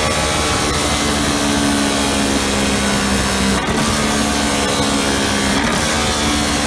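Ducati 1299 Panigale's Superquadro L-twin engine running loud and hard on a dynamometer, holding a steady high pitch, with two brief breaks about three and a half and five and a half seconds in where the pitch shifts slightly.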